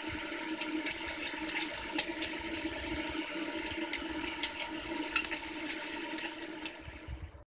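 Chopped vegetables and tomato pieces sizzling in oil in a pressure cooker on a gas flame, with light clicks of a spoon against the pot as they are stirred, over a steady low hum. The sound cuts off abruptly near the end.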